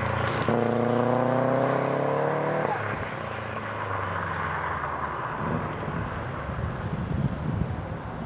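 Subaru STi's turbocharged 2.5-litre flat-four running through a B&B catback exhaust and catless downpipe. The engine note steps up about half a second in and climbs steadily for about two seconds, then breaks off. It falls away to a lower, rougher rumble with irregular low thumps in the second half.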